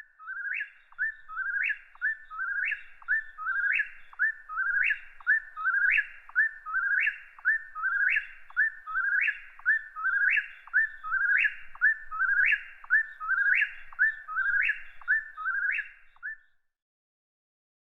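A bird singing the same short two-note phrase over and over, about once a second, then falling silent shortly before the end.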